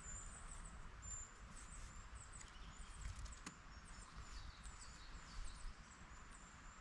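Faint high-pitched birdsong, many short chirps and quick trills, over a low outdoor rumble.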